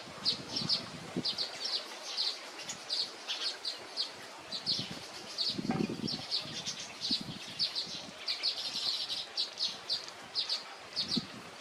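A small bird chirping over and over, short high chirps about two or three a second, with a brief low thud about six seconds in.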